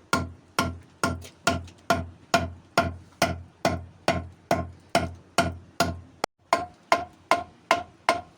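Traditional water mill knocking steadily, an even wooden knock with a short ring about twice a second, the rhythm of the mill running. The knocks break off briefly about six seconds in, then carry on at the same pace.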